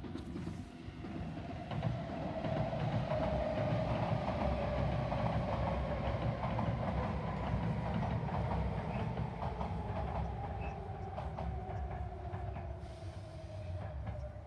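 A train passing: a low rumble builds over the first couple of seconds, with a steady whine that slowly falls in pitch and fades near the end.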